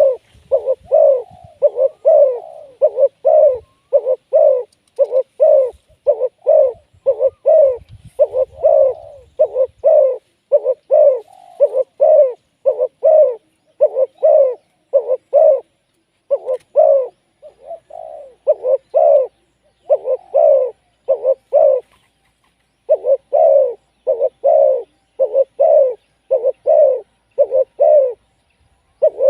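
Spotted dove cooing: a long run of short, repeated coos, about two a second, with a few brief pauses.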